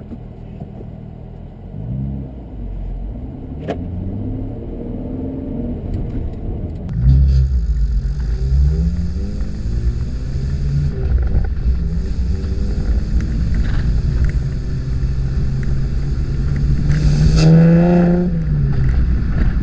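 2015 Chevrolet Camaro 1LT's V6 engine running through its dual-mode performance exhaust, the revs climbing and dropping again and again as the car accelerates through the gears. About seven seconds in it gets suddenly louder, and near the end the revs climb high and then fall.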